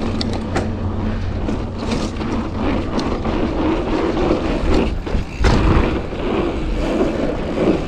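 Commencal mountain bike rolling fast over a dirt trail: tyre noise and rattling with frequent clicks and knocks over a steady low rumble, and a louder thump about five and a half seconds in.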